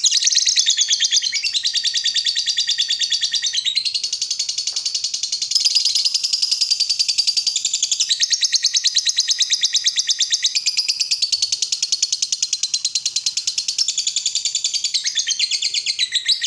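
Lovebird giving its long 'ngekek' chatter: an unbroken run of rapid, shrill, evenly spaced notes, about six a second, shifting pitch now and then. This is the long trilling song that keepers play to lovebirds to get them to sing.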